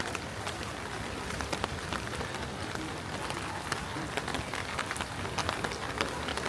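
Heavy rain falling, with frequent sharp drop impacts close by over a steady hiss.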